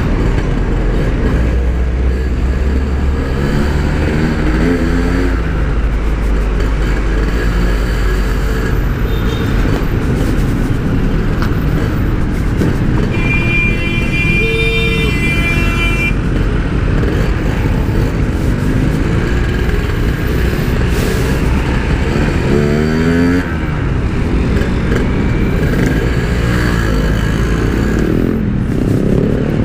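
Yamaha RX-King 135 cc two-stroke single-cylinder engine, fitted with a standard-style Packing Power exhaust, running under way in traffic; its revs rise and fall, with a clear climb about two-thirds of the way through. A vehicle horn sounds briefly about halfway.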